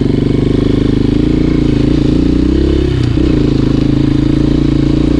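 Enduro motorcycle engine idling steadily, its pitch wavering briefly about two and three seconds in.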